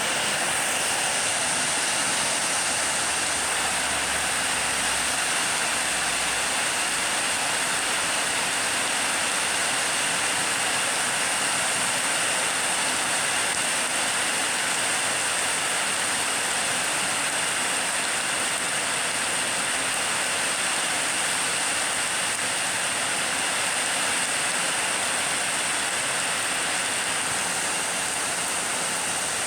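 Heavy storm rain and strong wind, a steady loud rushing hiss.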